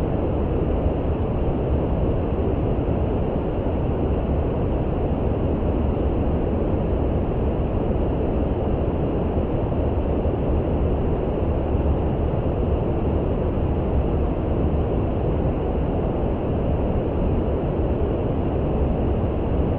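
Steady, even, low-pitched noise with no changes or events: brown noise of the kind played for sleep.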